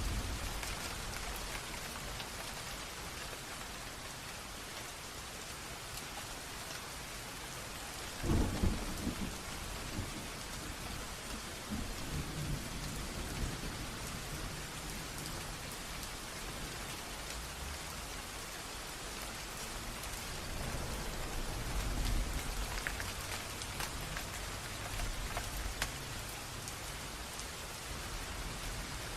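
Steady rain with a creek running, one even hiss. A sharp thunder crack comes about eight seconds in and rumbles off over several seconds, with a lower roll of thunder again about twenty-two seconds in.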